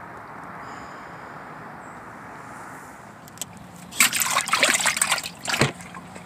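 Water splashing: a cluster of short, sharp splashes lasting under two seconds, about two-thirds of the way in, over a steady background hiss.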